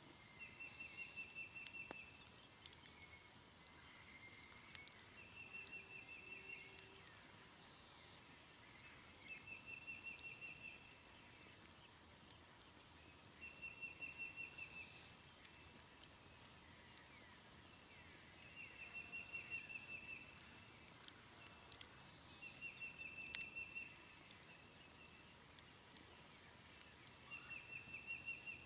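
An animal calling a short, fast trill, about a second long, over and over roughly every four seconds, with faint crackles from a smouldering campfire.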